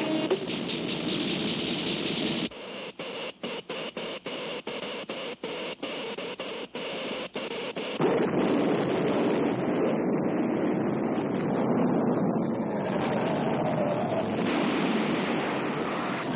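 Cartoon sound effects of the electric earthquake machine. A loud hissing noise breaks into a rapid stutter, cutting on and off two or three times a second, a couple of seconds in. About halfway through it gives way to a louder, dense rumbling noise as the earthquake strikes.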